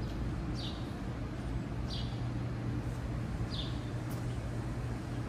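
A bird giving short, high chirps that slide downward in pitch, three of them about a second and a half apart, over a steady low hum of city background.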